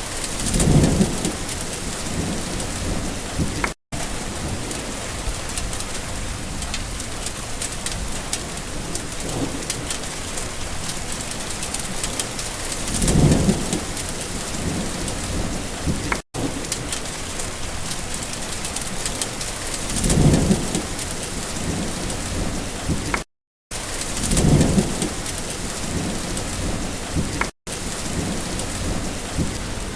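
Rain falling steadily, with thunder rumbling low four times: about a second in, near the middle, and twice near the end. The sound cuts out to silence briefly four times.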